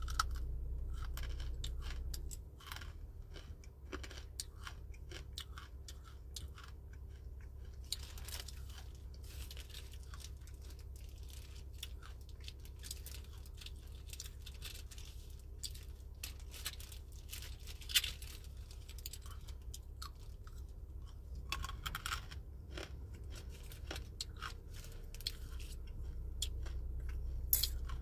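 Close-up chewing of crunchy dried fruit: irregular crisp crunches with no set rhythm, over a low steady hum.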